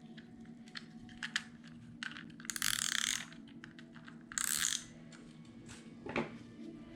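Adhesive tape runner clicking as it is drawn along paper, twice: a rapid ratcheting run of about a second, then a shorter one.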